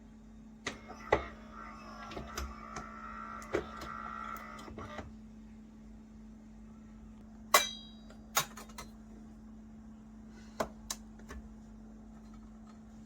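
A run of sharp clicks and knocks, with a whirring sound between about one and five seconds in, over a steady low hum.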